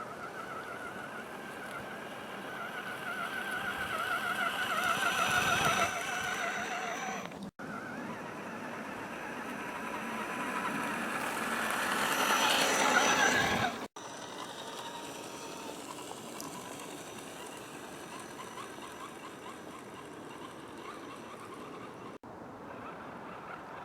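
Electric whine of an RC scale crawler's Tekin 35-turn brushed motor and metal transmission gears as the truck drives, wavering in pitch with the throttle. It builds louder twice over several seconds, each time breaking off suddenly, then runs steadier and quieter.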